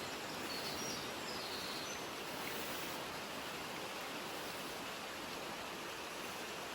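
Steady mountain field recording: an even rushing hiss, with a few faint, short, high bird chirps in the first second or two.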